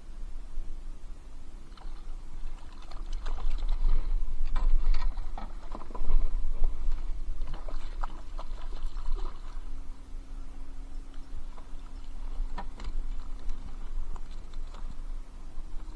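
Water splashing and dripping against a kayak, in scattered short bursts, over a steady low rumble.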